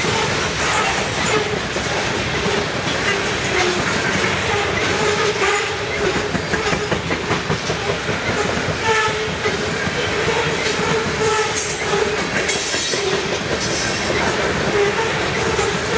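A train passing close by on the BNSF line: steady rumble of steel wheels on the rails with clickety-clack over the rail joints and a wavering tone running through it.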